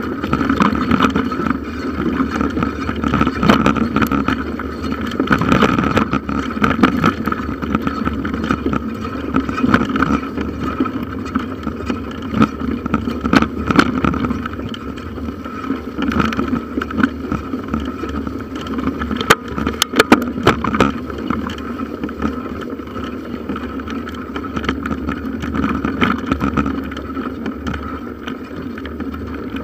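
Bicycle rolling over a forest trail, heard from the handlebars: steady tyre noise and frame rattle with frequent small clicks, and a quick run of sharp clicks about two-thirds of the way through.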